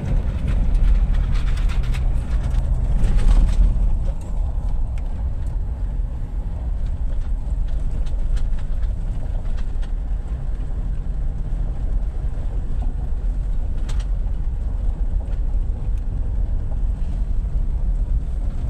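A vehicle driving: a steady low rumble of engine and road noise, louder over the first four seconds, with scattered light knocks.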